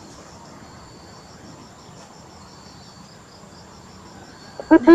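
Steady high-pitched insect chirping, like crickets. Near the end, a coucal starts its deep hooting call, a run of evenly spaced hoots at about four a second that is much louder than the insects.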